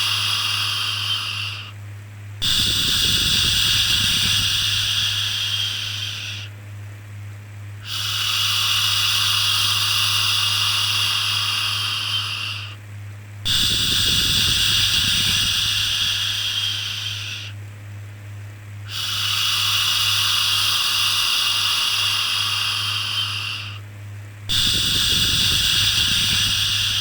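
Repeated long 'shhh' shushing to soothe a baby: five hissing shushes, each about four to five seconds long, fading at the end and starting again after a brief pause. A steady low hum runs underneath.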